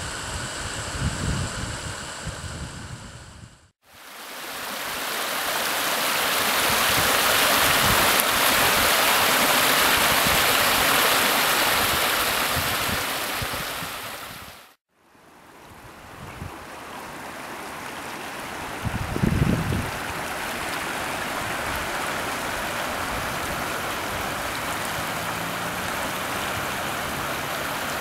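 Rushing water from rain runoff, likely a flooded ravine, heard as a steady rushing noise. It comes in three separate shots with two abrupt cuts, about 4 and 15 seconds in; the middle shot is the loudest.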